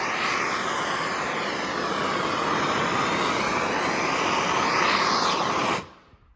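Heat gun blowing hot air in a steady rush over bare-metal minibike wheels, its tone slowly wavering as it is moved about, drying off brake cleaner and moisture. It shuts off suddenly near the end.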